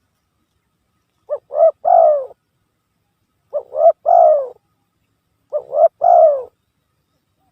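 Spotted dove (tekukur) song used as a lure call: three coo phrases about two seconds apart, each two short notes followed by a longer note that falls in pitch.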